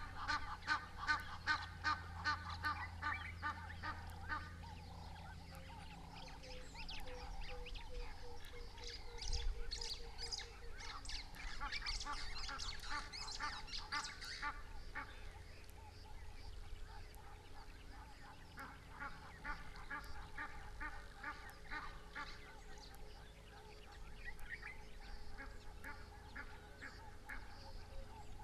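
Birds calling in bouts of rapid, evenly repeated honking notes: one series fading out about four seconds in, a higher, busier stretch of calling from about eight to fifteen seconds, and another series around twenty seconds.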